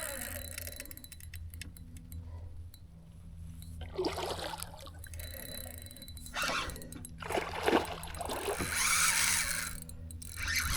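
Water splashing in several separate bursts: one about four seconds in, a longer run in the middle and another near the end. A steady low hum runs underneath.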